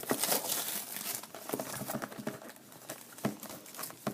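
Plastic wrapping crinkling as a sealed box of basketball cards is opened, most heavily in the first second and a half, followed by scattered small taps and clicks of handling.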